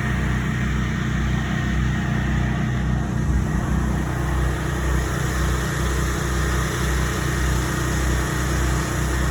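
Steady motor-vehicle engine and road noise: a continuous low rumble with a faint even hiss.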